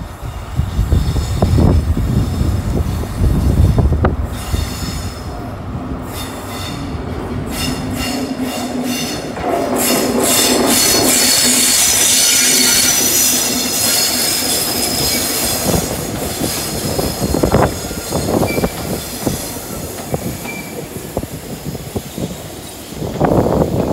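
ScotRail HST with a Class 43 diesel power car rolling past through a curved station platform. Its wheels squeal shrilly on the curve, and the power car's engine drones steadily as it goes by, loudest about halfway through.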